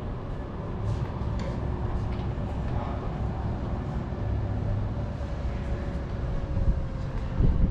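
Steady low rumble with a faint humming tone that sinks slowly in pitch over the last few seconds: a motor vehicle's engine running nearby.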